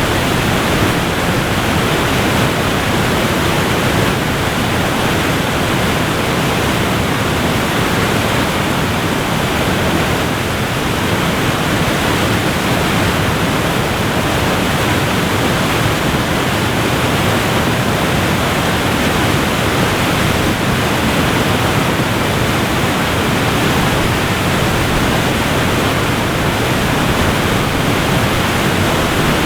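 Waterfall: a steady, even rush of falling water with no breaks or other sounds.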